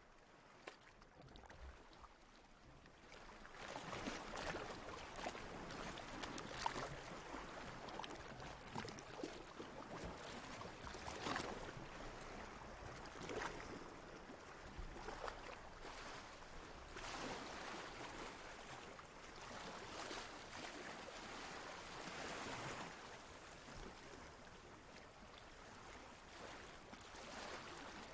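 Water lapping and sloshing in soft, uneven surges that swell and fade every couple of seconds, with a few small splashes. It is quieter for the first few seconds.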